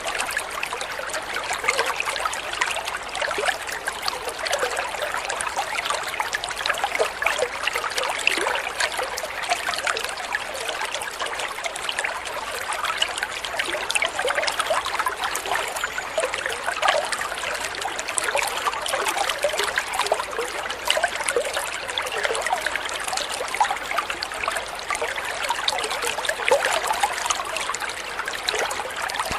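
Running water trickling and splashing steadily, a continuous babble of many small splashes.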